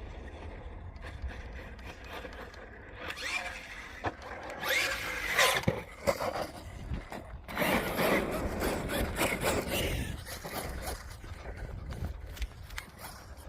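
Team Corally Kagama electric RC stunt truck driving on dirt: motor whine with rising pitch and tyres scrabbling and scraping, in two louder runs, the first starting about three seconds in and the second about seven and a half seconds in. Wind rumbles on the microphone throughout.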